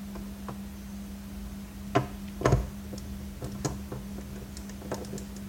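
A few sharp knocks and clicks of a tool's bit and extension against the plastic housing of a vacuum cleaner as a recessed screw is worked at, the loudest about two and a half seconds in, over a steady low hum.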